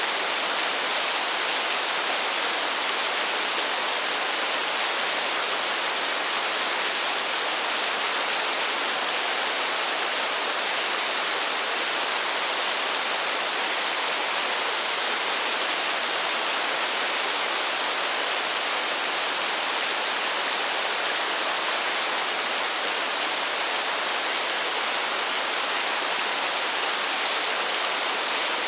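Steady heavy rain falling in a forest: an even, unbroken hiss with no single drops standing out.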